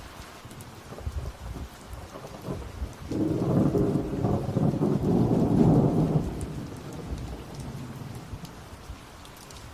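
Rain falling steadily, with a roll of thunder that swells about three seconds in, peaks, and rumbles away by about seven seconds.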